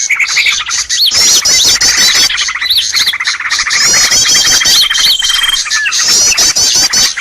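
Bird-lure call recording: a loud, dense tangle of rapid chirps, squawks and short up-and-down call notes from several birds at once, with a thin held whistle now and then, played to draw wild birds in.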